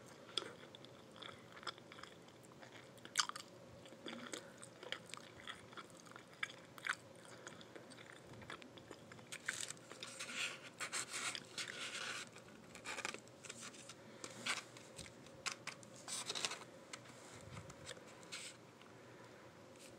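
A person chewing a meal of fried chicken wings and vegetable fried rice close to the microphone: irregular crunches and wet mouth clicks, busiest in the middle stretch.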